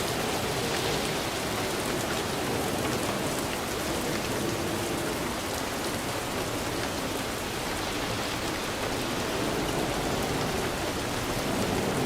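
Steady heavy rainfall, a dense even hiss of rain with many fine drop patters on surfaces.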